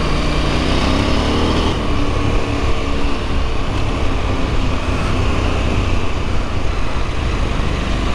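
Husqvarna Norden 901's parallel-twin engine running under way on a gravel track, its pitch rising a little over the first couple of seconds and then holding steady, over a constant rush of wind and gravel noise.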